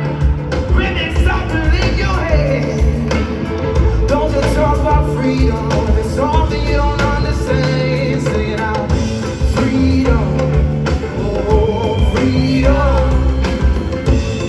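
Live band playing a rock-leaning song: guitar, bass and drums with singing over them.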